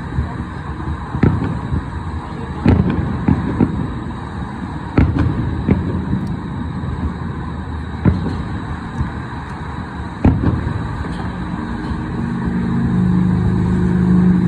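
Fireworks bursting at a distance, about eight sharp bangs spaced a second or two apart, over the steady hum of city traffic. A low steady drone grows louder near the end.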